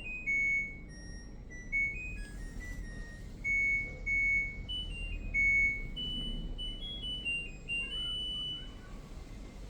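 An appliance's electronic buzzer playing a short tune of single beeps that step up and down in pitch, ending a little before the close. It is the kind of jingle a washing machine or dishwasher control panel plays. A low steady hum runs underneath.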